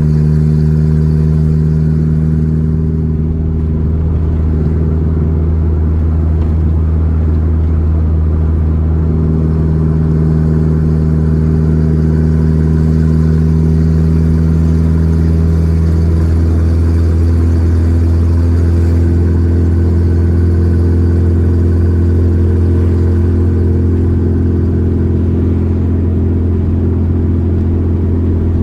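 Volkswagen Gol G4 Rallye's four-cylinder engine running steadily under way, a low drone with a slight shift in pitch about halfway through.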